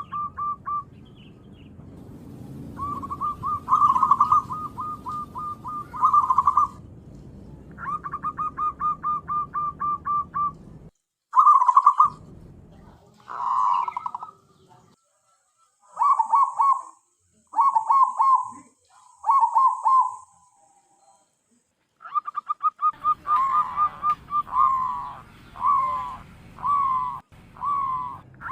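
Zebra dove (perkutut) calling: phrases of quick, evenly repeated cooing notes, several seconds each, broken by short pauses.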